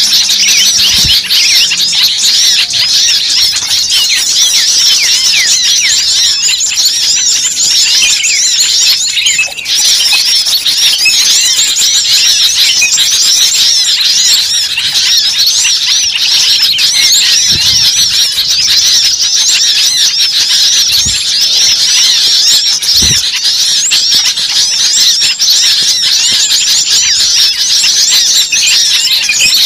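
A dense, continuous chorus of many small songbirds giving rapid, high, agitated chirps and squeaky calls over one another. It is a bird-luring (pikat) recording of small birds in an excited, mobbing-like uproar, used to draw other birds in.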